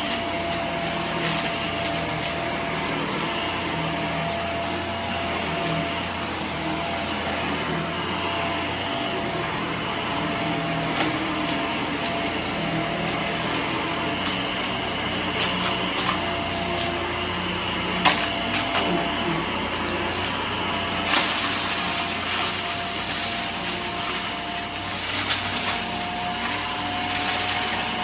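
Vacuum cleaner running with a steady motor whine, picking up scattered debris that clicks and rattles as it is sucked in. About 21 seconds in, a louder hiss joins, and the whine rises slightly in pitch near the end.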